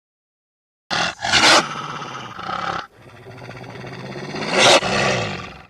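Lion roaring: two long, rough roars, the first starting about a second in, the second swelling to its loudest near the end before fading.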